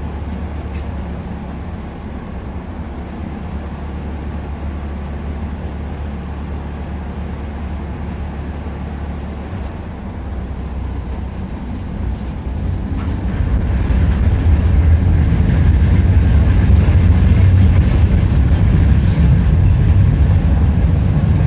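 Tram running along its line, heard from inside the passenger car: a steady low rumble of wheels on rails that grows louder about two-thirds of the way through.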